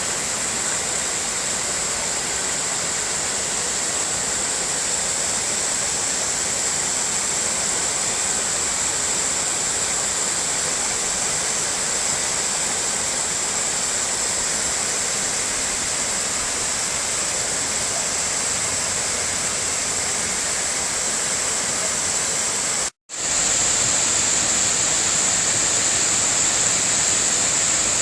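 A waterfall rushing: a steady, even roar of falling water. It cuts out for an instant near the end and comes back a little louder.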